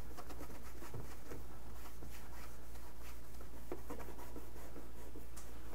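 Damp paper towel wiping and rubbing over a microwave door in light, scattered strokes, over a steady low hum.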